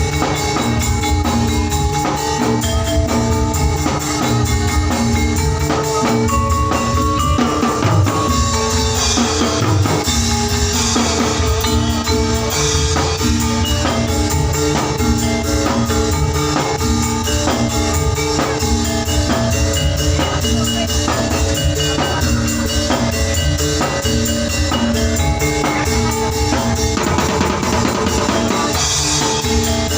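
Oklik ensemble music: a steady rhythmic pattern of struck wooden and bamboo percussion with a repeating melody of pitched notes, played loud through a sound system.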